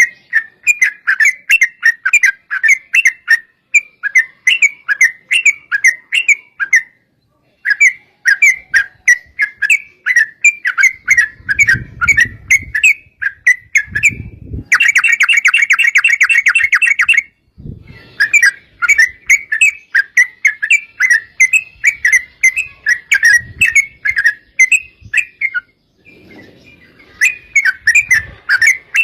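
Yellow-vented bulbul (trucukan) calling in a long run of quick bubbly chirps, about three to four a second, broken about halfway by a fast rattling trill (the 'ropel') lasting a couple of seconds. A few faint low thuds sit underneath.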